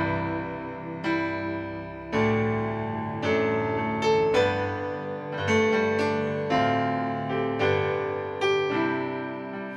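Piano playing slow worship-song accompaniment on its own, a chord struck about once a second and left to ring and fade, an instrumental interlude between sung lines.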